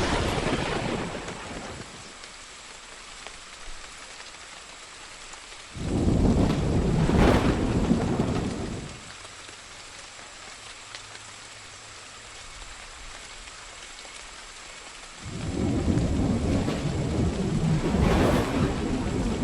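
Steady rain with rolls of thunder: one dying away in the first couple of seconds, a loud roll about six seconds in lasting some three seconds, and another building about fifteen seconds in and running on.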